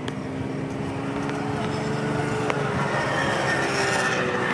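Motor vehicle engine running with a steady hum, growing gradually louder toward the end as traffic passes close by.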